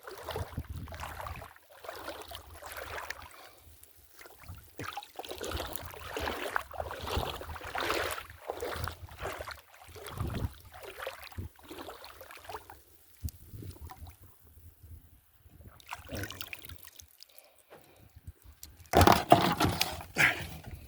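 Shallow seawater being stirred up: irregular sloshing and splashing, with a louder splash near the end.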